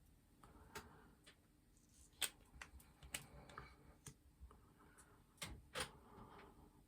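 Faint, scattered clicks and taps with soft rustling from small plastic makeup items being handled, typical of a mascara tube and wand being worked; the loudest clicks come around the middle and again near the end.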